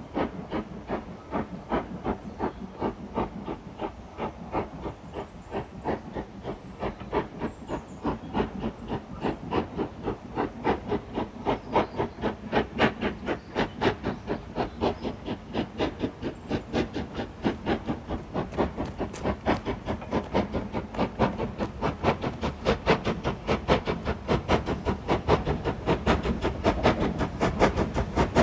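Steam locomotive exhaust beats, a steady chuff with hiss, coming at about two to three a second and picking up slightly while growing louder toward the end.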